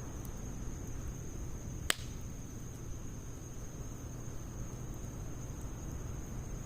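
Wood campfire of logs and pine needles burning in a Snow Peak fire stand, with one sharp pop of the burning wood about two seconds in and a few faint crackles.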